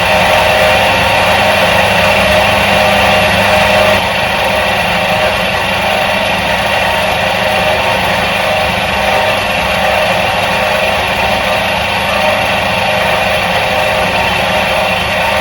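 Electric motor of a 1977 Soviet washing machine running with a steady mechanical hum, dipping slightly in level about four seconds in.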